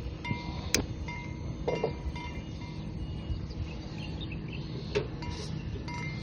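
Gusty wind rumbling on the microphone, with short, repeated high ringing notes and a few sharp clicks, the loudest about a second in and again about five seconds in.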